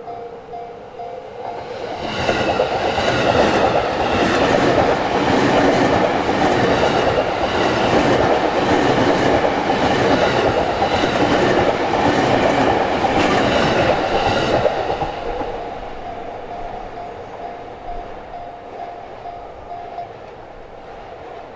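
Japanese level-crossing warning bell ringing with a repeating two-tone clang, then a Yamanote Line E231-series electric commuter train runs over the crossing for about thirteen seconds, its wheels clattering over the rail joints and drowning out the bell. The bell is heard again as the train goes by and stops near the end.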